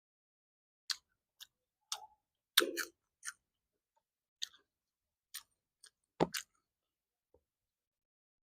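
Close-up mouth sounds of a person eating: about a dozen short, wet smacks and clicks of chewing at an irregular pace, the loudest a little past six seconds.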